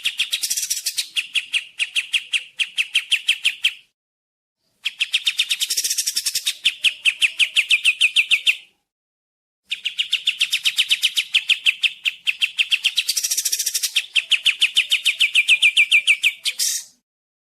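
Kapas tembak bird singing: long, rapid trills of sharp repeated notes, about ten a second, in phrases of four to seven seconds with short pauses between them. The notes slip a little lower towards the end of each phrase.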